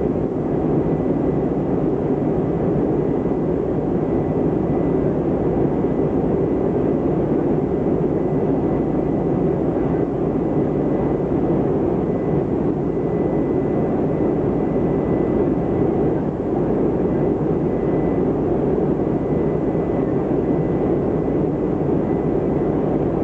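Steady cabin noise of a Boeing 747-400 in flight, heard from the upper deck: an even, low hum of engines and airflow with a faint steady high tone, and no change in level.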